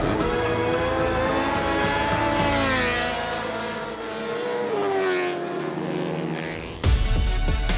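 Racing motorcycle engines at high revs, the pitch rising and falling as the bikes accelerate and pass. About seven seconds in it cuts off abruptly into music with a heavy beat.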